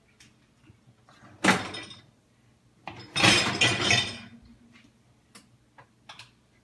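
Dishes clattering as they are put into a dishwasher rack: one sharp clatter, then a longer rattling clatter of dishes against the rack about a second and a half later.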